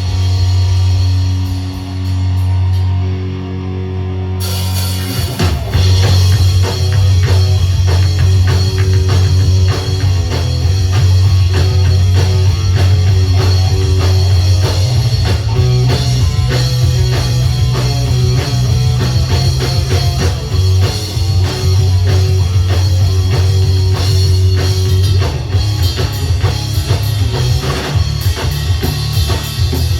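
Punk rock band playing live: loud held bass and guitar notes open, then the drums and cymbals come in with the full band about five seconds in.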